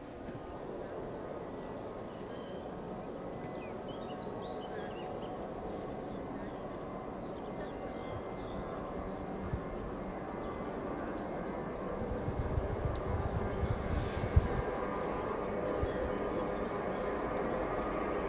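Airbus A321-200 jet engines running at a distance and growing steadily louder as the takeoff begins, with birds chirping over it and a spell of low rumbling about two-thirds through.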